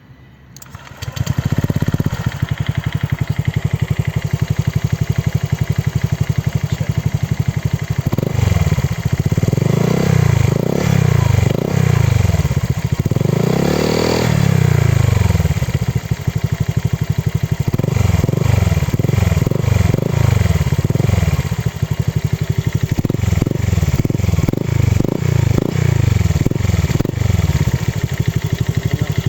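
Honda Click 125i scooter's single-cylinder four-stroke engine breathing through an EXOS X6 aftermarket exhaust: started about a second in, then idling steadily. It is revved in a series of rising and falling throttle blips, settling back to idle between runs.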